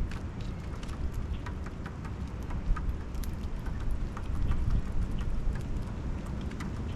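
A steady low rumble with many irregular light taps and clicks scattered through it.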